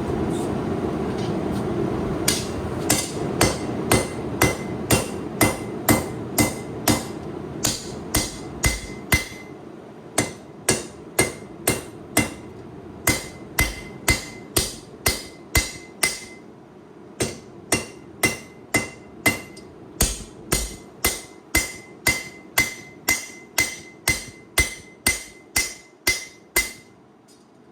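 Hammer blows on a hot 8670 high-carbon steel knife blade at the anvil, forging down the point of the preform. The strikes come about two a second in runs with short pauses, each with a bright ring. A steady rushing background fades away during the first stretch.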